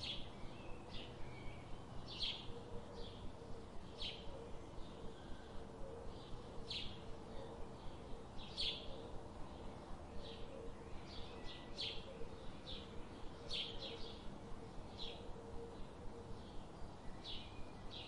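Birds chirping in short, sharp high calls, several a second throughout, over a faint steady low background hum.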